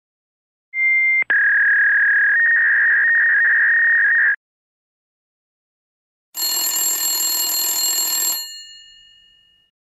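Telephone sound effects: a short beep and a click, then a steady phone-line tone for about three seconds. After a pause, a telephone bell rings for about two seconds and dies away.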